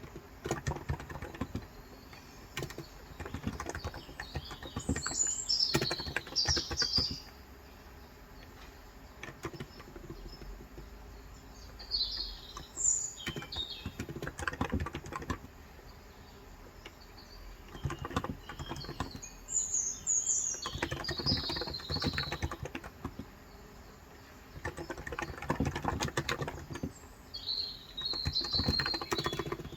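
Typing in bursts on a COX Endeavor electro-capacitive keyboard with 35 g switches, runs of key presses separated by pauses of a few seconds. Small birds chirp in short high phrases several times over the typing.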